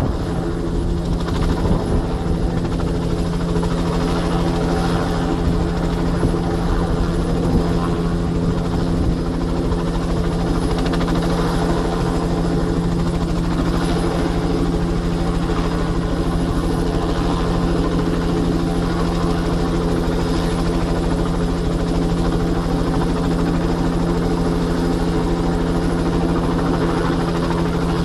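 Bell 206 JetRanger helicopter running steadily at take-off power: the Allison 250 turboshaft turbine and rotor beat make a constant engine-and-rotor noise, with a faint high turbine whine.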